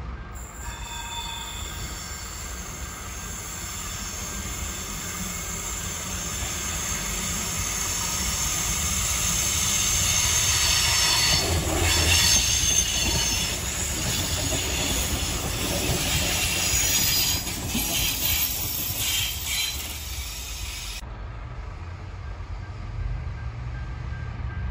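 Adelaide Metro 3000-class diesel railcar passing, its wheels squealing in several high tones over a low rumble. The sound builds to its loudest midway as the car goes by, and the squeal stops a few seconds before the end, leaving the rumble.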